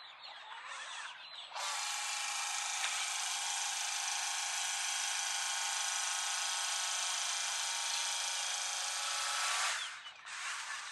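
Small electric motor and gearing of a radio-controlled truck, whining at a steady pitch. It starts about one and a half seconds in and cuts off near the end.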